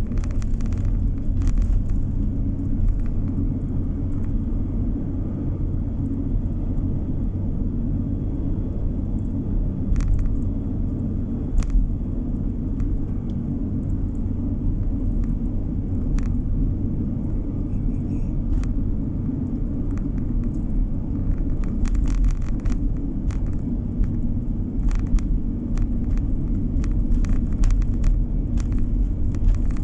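Steady low rumble of a car driving on the road, engine and tyre noise heard from inside the cabin, with short clicks now and then.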